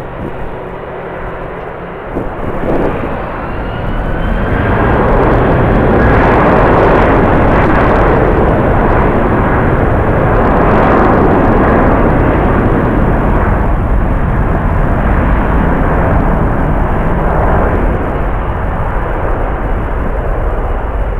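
Jet airliner's engines, a rushing noise that swells from about three seconds in, peaks in the middle and then holds steady, with a faint rising whine early on. Strong wind rumbles on the microphone underneath.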